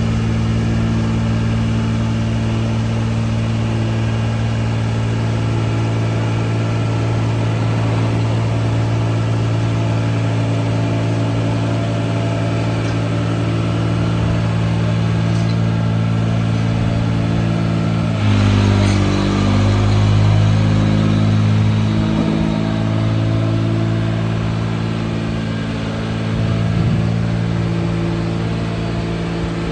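Engine of a Liebherr T 264 mining haul truck running at a steady, even note. About two-thirds of the way through, the engine note shifts and wavers for a few seconds with a brief burst of hiss, then it settles steady again.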